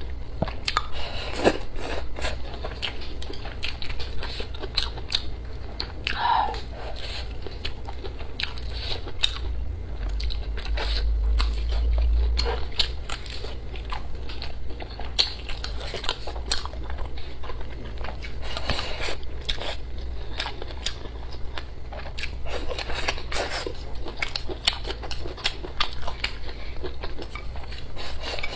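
Close-miked chewing and biting of braised pig intestines with rice and greens: wet mouth sounds, soft crunches and many short clicks throughout, over a steady low hum.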